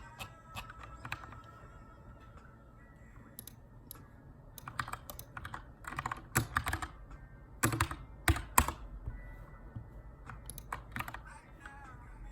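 Typing on a Keychron K2 aluminium mechanical keyboard with brown switches: scattered keystrokes at first, then a quicker run of keys in the middle with a few louder strokes.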